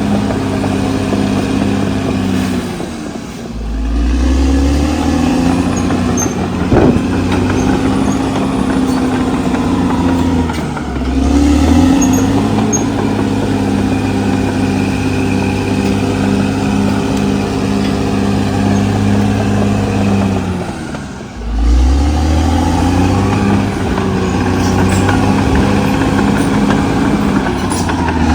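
CAT D6R XL bulldozer's diesel engine working under load, its note sagging and recovering three times as it pushes. A single sharp knock about seven seconds in.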